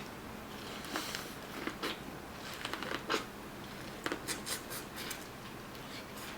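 Faint eating sounds: scattered soft clicks and crackles of food being chewed and handled, in small clusters.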